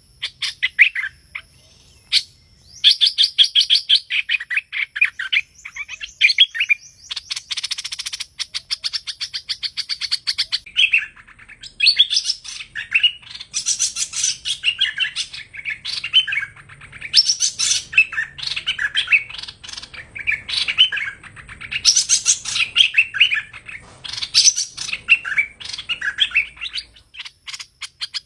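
Streak-eared bulbul (hoành hoạch) song: bursts of rapid, chattering chirps repeated one after another, the kind of call played to lure the bird into a trap.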